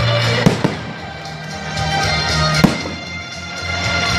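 Fireworks bursting overhead: two sharp bangs, the first about half a second in and the second about two and a half seconds in, each trailing off. Music with sustained notes and a bass line plays throughout, swelling and fading.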